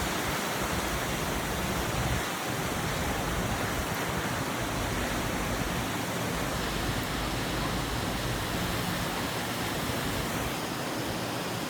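Heavy rain falling steadily, a dense even hiss of pouring water.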